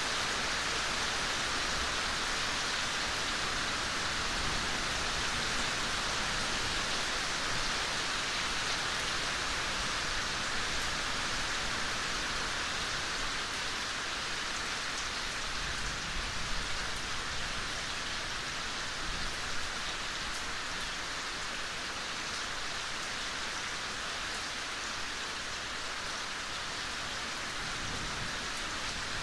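Gentle rain falling steadily in a forest: an even hiss of many fine drops, with no let-up or change in strength.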